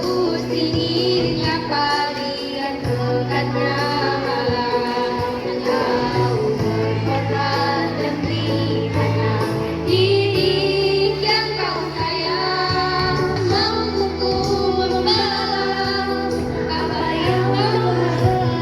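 Girls' choir singing a melody together over instrumental accompaniment, with held bass notes that change every second or two.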